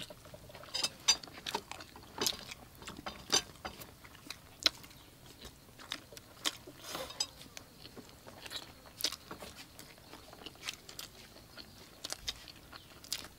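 People biting and chewing sauce-glazed fried chicken wings: irregular sharp crunching and smacking clicks, several a second at times, over a quiet background.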